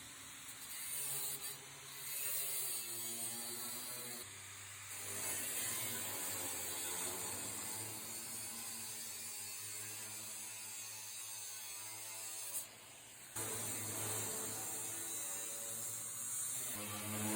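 Angle grinder cutting through thin sheet steel, its motor pitch wavering as it bites, with a few short breaks in the cut.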